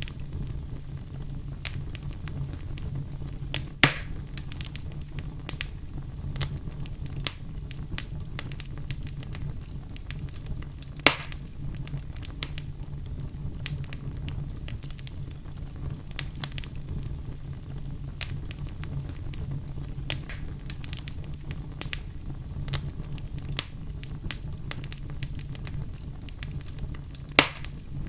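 Wood campfire crackling, with frequent small snaps and three louder pops (about 4 seconds in, about 11 seconds in, and near the end), over a steady low rumble.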